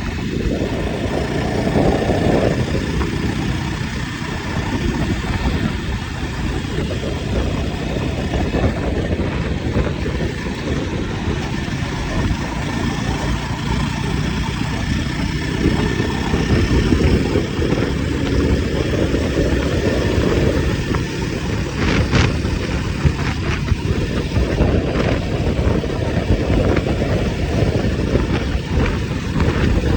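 Jawa 42 Bobber's single-cylinder engine running while under way, swelling and easing several times with the throttle, over a steady rush of wind and road noise. A few sharp knocks come about two-thirds of the way through.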